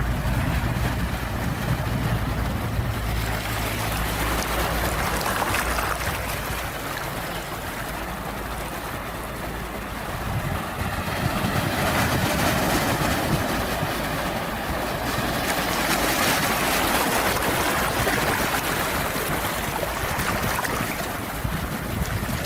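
Ocean surf: waves washing in and drawing back, the noise swelling in slow surges, with a low rumble in the first few seconds.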